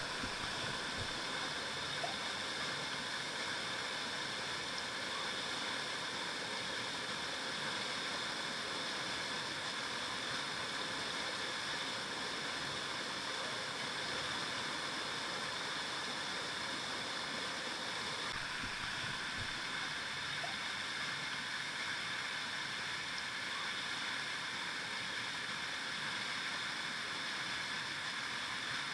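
River water flowing: a steady, unbroken stream sound.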